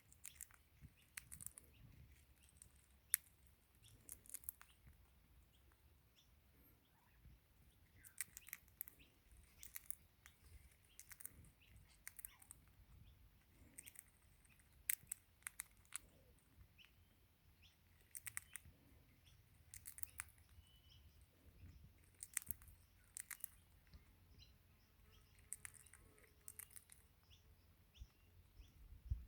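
Faint, irregular sharp clicks and crunches, single and in quick clusters, from a crimson rosella cracking sunflower seeds in its beak, with a few faint bird chirps.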